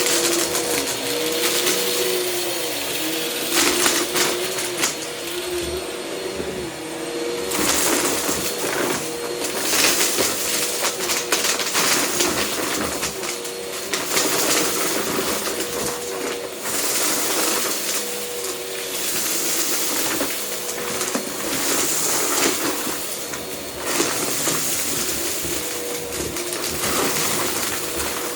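Vacuum cleaner running steadily with a constant motor whine, over which comes repeated crackling and rattling as debris is sucked up.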